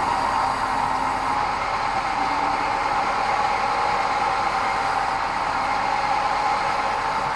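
Sawmill band saw running steadily, a constant loud machine noise with no change in pace.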